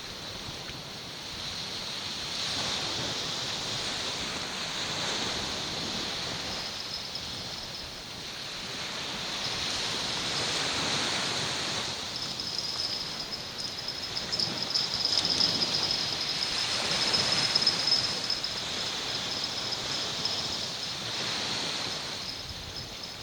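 Sea waves washing onto the shore, swelling and fading every few seconds, with a thin, steady high-pitched tone above them from a few seconds in.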